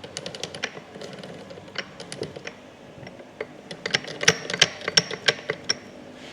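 Light clicks and taps of hard transmission parts being handled, sparse at first, then a quicker run of sharper clicks about four to six seconds in.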